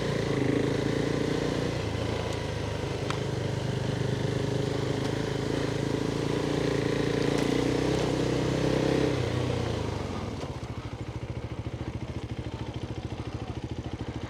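Off-road motorcycle engine running at a steady throttle. About ten seconds in it drops back to a lower, pulsing low-revving chug.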